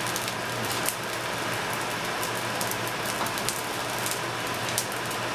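Rice-and-vermicelli mix sautéing in butter in a skillet, sizzling with a steady run of sharp crackles as the pasta browns, with the scrape of a slotted spatula stirring it. A faint steady low hum runs underneath.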